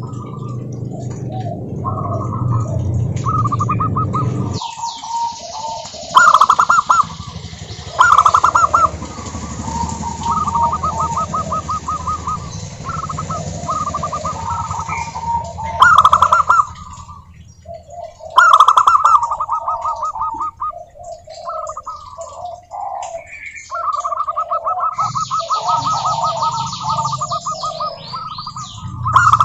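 Zebra doves cooing: repeated short phrases of rapid, rippling coos, at two pitches that overlap, from more than one bird. A low hum under the first four seconds or so cuts off suddenly.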